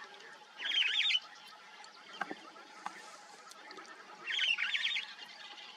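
A bird singing: two short, high warbled phrases of quick repeated notes, one about half a second in and the same phrase again just after four seconds.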